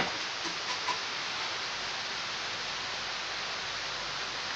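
Steady hiss of rain falling outside an open window, with a sharp click right at the start and a couple of faint ticks just after.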